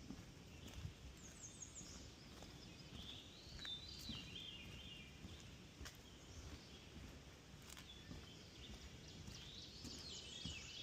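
Faint birdsong, short chirping phrases about a second and a half in, around three to four seconds in and again near the end, over soft irregular footsteps on a wooden boardwalk.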